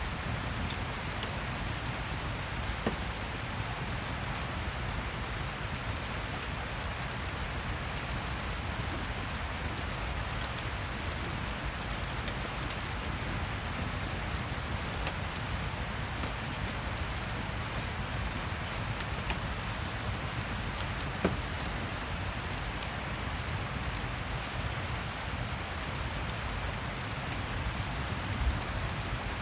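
Steady rain falling, an even hiss and patter, with a few sharp pops from a crackling fireplace now and then.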